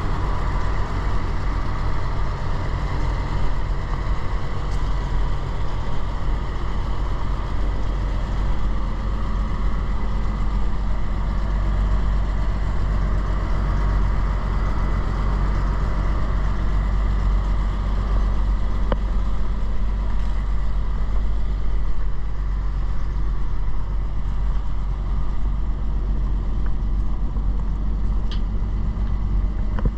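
1939 Dodge Brothers TE-32 1.5-ton truck's flathead six-cylinder engine idling steadily.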